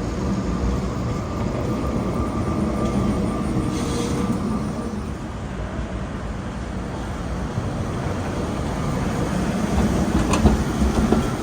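Electric tram running on its rails: a steady rumble with a few faint steady tones, and a sharp click about ten seconds in.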